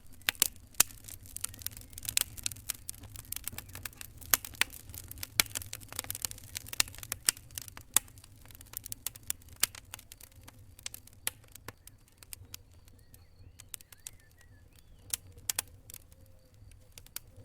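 Fire crackling: sharp pops and snaps over a low steady rumble of the flames, coming thick and fast for the first several seconds, then thinning out to scattered pops.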